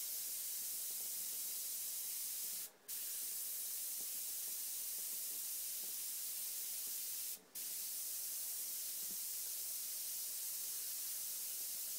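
Airbrush spraying paint: a steady hiss of air that cuts off briefly twice and resumes.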